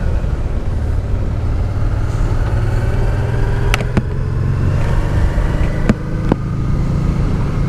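Honda Deauville V-twin motorcycle running at a steady cruise, with wind rushing on the camera microphone. There are a few sharp clicks around four and six seconds in.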